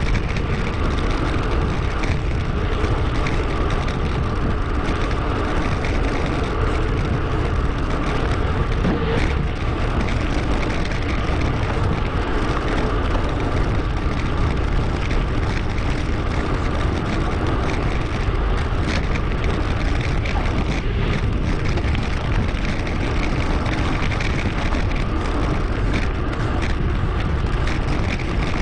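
Steady rush of wind and riding noise on an action camera's microphone while cycling, sped up 2.5 times.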